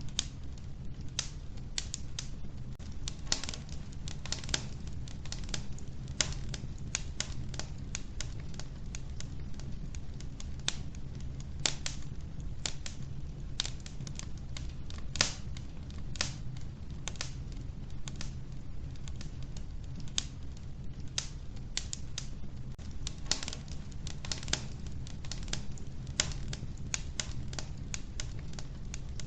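Wood fire burning in a wood stove: irregular sharp crackles and pops of the burning logs, several a second, over a steady low rumble of the flames.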